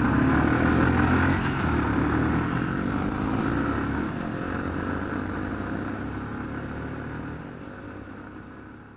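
Motorcycle engine running steadily, fading gradually over the whole stretch.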